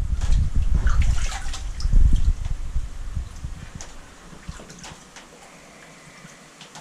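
Water splashing and sloshing as a koi is let into its new tank, loud for the first couple of seconds and dying away to quiet about four seconds in.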